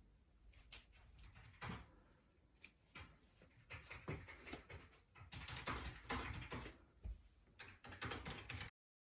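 Computer keyboard keys clicking and tapping irregularly, quietly, in scattered taps that thicken into dense runs in the second half, then cut off abruptly near the end.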